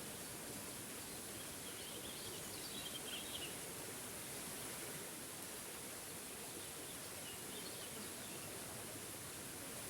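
Small forest waterfall's steady rush of water, with a bird chirping in short twittering phrases about two seconds in and again around seven seconds in.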